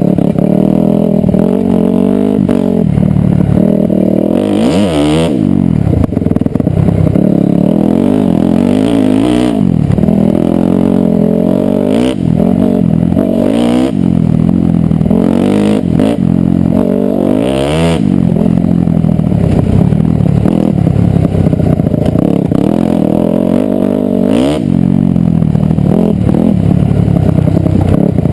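Dirt bike engine being ridden hard on a singletrack trail, its revs climbing and dropping back again and again every couple of seconds as the rider accelerates, shifts and rolls off. Occasional knocks and clatter from the bike.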